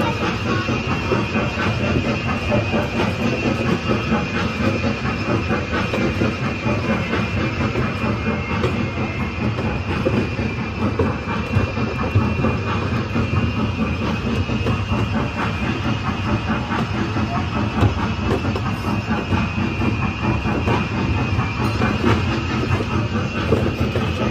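A train running on rails: a steady rumble and rattle.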